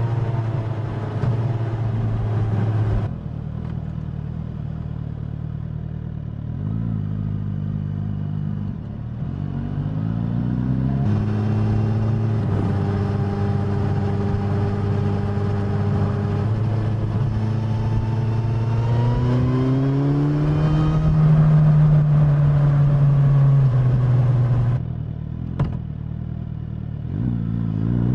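Suzuki GSX-S1000's inline-four engine and exhaust on the move, its note rising under acceleration, holding steady at cruise, and falling back as the throttle closes.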